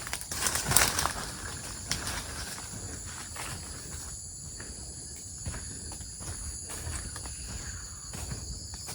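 Steady high-pitched insect chorus, with irregular footsteps and rustling of someone walking over the ground; the loudest crunching comes about a second in.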